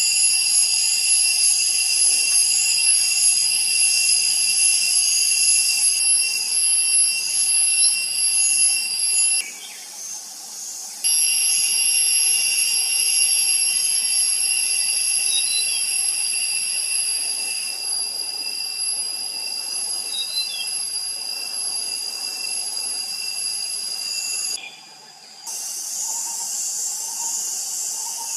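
Steady, high-pitched drone of an insect chorus, with a faint pulsing beat in it, broken off twice for about a second.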